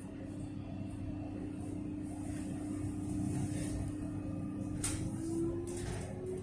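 Melbourne Metro electric train's traction motors humming on a steady tone, then starting to whine upward in pitch about five seconds in as the train pulls away and accelerates, with a sharp click at about the same moment.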